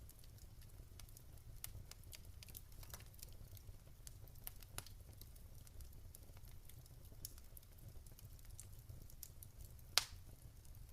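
Wood fire in a fireplace crackling softly: scattered small pops and snaps over a low rumble, with one sharper, louder pop about ten seconds in.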